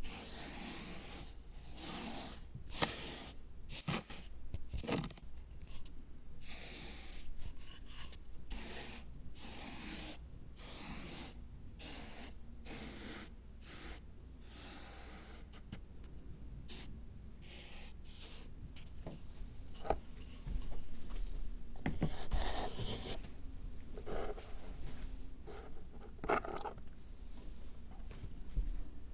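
Handwork on a miniature diorama: a long run of short scratching and rubbing strokes, with a few louder scrapes in the second half.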